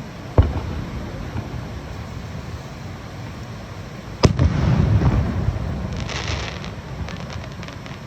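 Aerial fireworks shells bursting: two sharp bangs, the second, a little past four seconds, louder and followed by a long echoing rumble, then a spray of crackling sparks around six seconds.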